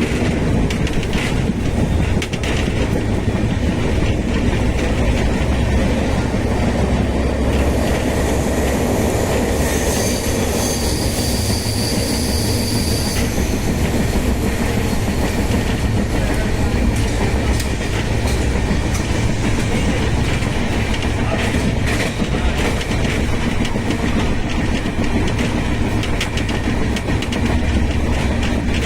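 A train running on the track, with a steady rumble and wheels clattering over rail joints. For about three seconds near the middle there is a high, multi-toned wheel squeal.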